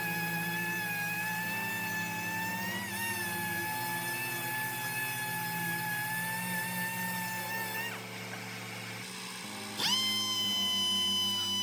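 A high-speed power tool whines steadily, stops about eight seconds in, and spins back up with a quick rising whine near the end. Background music plays underneath.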